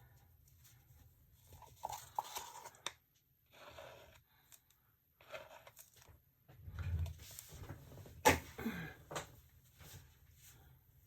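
Paper towel rustling and tearing while spilled resin is wiped up, in short scattered bursts, with a few sharp clicks; the loudest click comes about eight seconds in.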